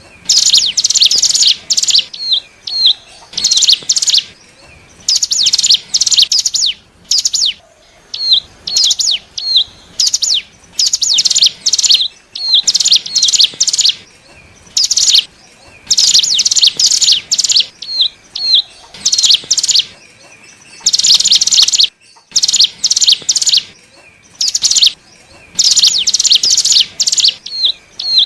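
Ciblek gunung (cigun) singing: loud phrases of rapid, buzzy high chattering, each about a second long, repeated with short pauses, with thin upslurred notes between some phrases.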